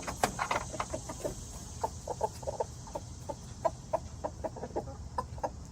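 Young rooster's food call (tidbitting): a quick run of short, clipped clucks, several a second, calling his hens over to treats he has found.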